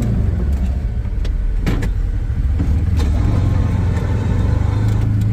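A vehicle engine running steadily with a low hum, with a few light clicks over it.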